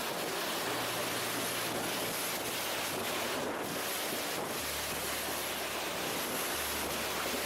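Strong winds from a nearby tornado blowing across the microphone: a steady rushing noise.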